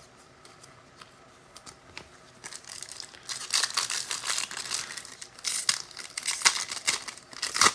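A trading card pack wrapper being torn open and crinkled by hand. It starts about two and a half seconds in as a dense run of crackling and tearing.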